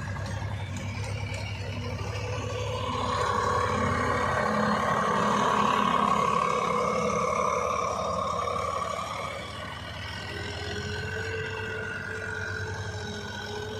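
Diesel tractor engine running steadily with a faint whine above it. It grows louder through the middle and eases off again about two-thirds of the way in.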